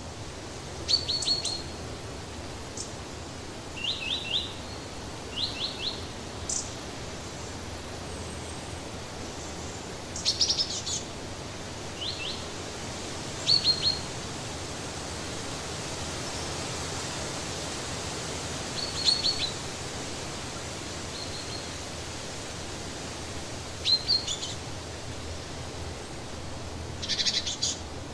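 Small birds chirping: short runs of three or four quick, high chirps, repeated every few seconds over a steady background noise.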